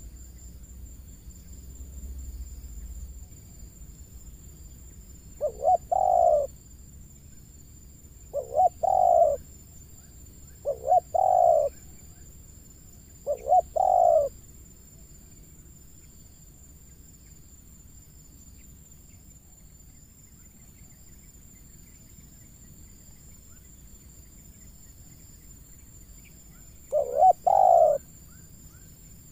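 Spotted dove cooing: five short call phrases, each a quick pair of notes running into a longer coo. Four come in close succession in the first half and one comes near the end.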